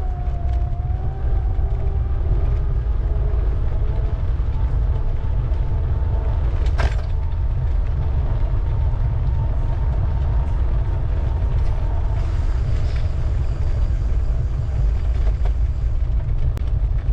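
Steady low rumble of wind on the microphone and the ride itself while cycling, with faint mechanical creaks and rattles from the bicycle. There is a sharp click about seven seconds in.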